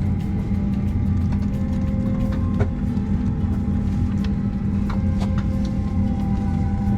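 Steady low drone of a jet airliner's cabin, with a few faint clicks.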